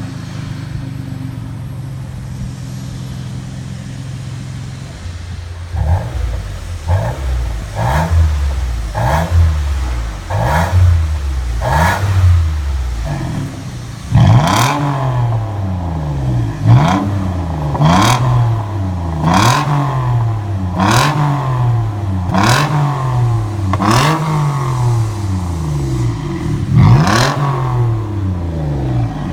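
Lexus RX350's 3.5-litre V6 through an aftermarket RES variable-valve exhaust, idling and then revved in quick blips about one a second. From about halfway through the revs get louder and longer, about one every second and a half.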